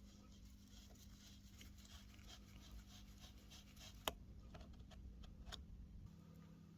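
Faint scratching and rubbing, with one sharp click about four seconds in and a few softer ticks after it, over a low steady hum.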